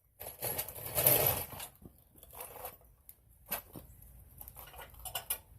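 Rustling and handling noise, then scattered light metallic clicks and rattles of tools being handled during shock removal.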